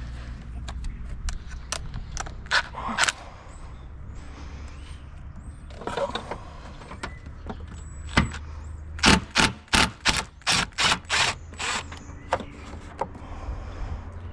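Scattered metallic clicks and knocks of hand tools being worked, then a run of about eight sharp strokes, roughly three a second, starting about nine seconds in.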